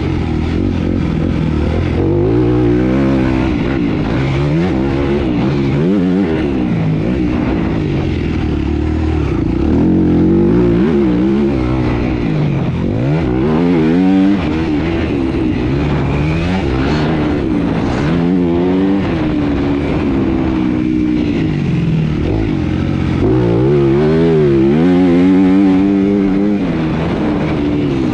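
Motocross bike engine running hard, its pitch climbing and dropping again and again every few seconds as the throttle is opened and closed.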